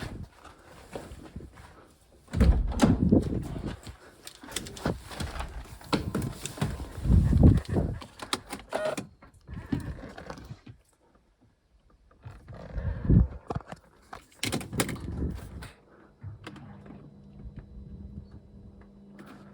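Irregular knocks, thunks and handling noises of work around a car. About three-quarters of the way through, a steady low hum sets in, just before the engine is started.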